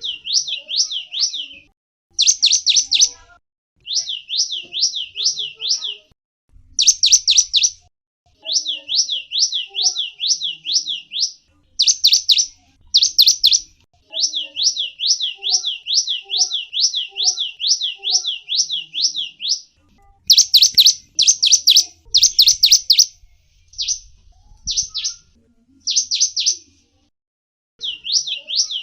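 Small songbird, a gelatik wingko, calling in phrases of quickly repeated high chirps. Each note sweeps downward, about four to five a second, and the phrases are broken by short pauses.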